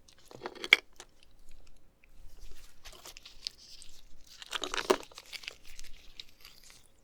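Close-miked crinkling and crunching handling noises in a few short bursts, the loudest about five seconds in, as the oysters are picked up for the first bite.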